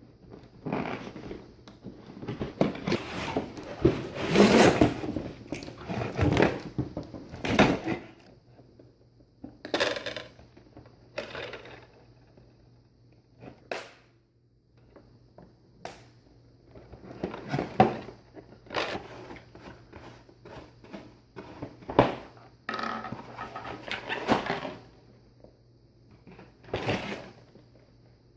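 Plastic toy set and its packaging being handled: irregular clicks, knocks and rustling, busiest in the first few seconds.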